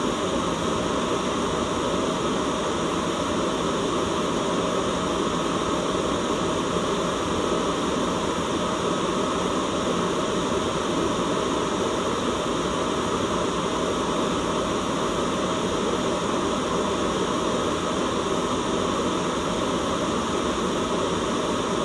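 Steady white noise, an even hiss with a full low end that holds at one level without change.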